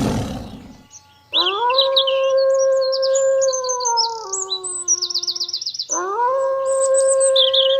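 The tail of a big cat's roar fades out in the first second. After a short gap a canine howls twice, each howl a long steady note that steps down in pitch near its end, with birds chirping behind it.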